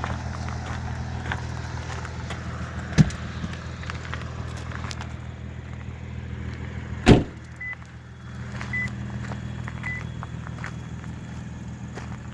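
Lexus IS250's V6 idling steadily through a muffler-deleted, 3-inch straight-piped exhaust. There is a sharp click about three seconds in and a louder thump about seven seconds in, followed by three short high beeps about a second apart.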